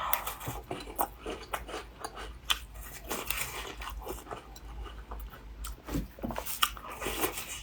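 Close-up biting and chewing of a crumbly taosu shortbread cookie, a run of irregular small crunches.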